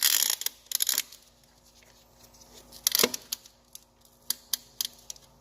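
New pistons being tapped down into the cylinder sleeves of a Perkins diesel engine: a series of sharp taps and knocks, a few quick ones in the first second, the loudest strike about three seconds in, then lighter scattered taps.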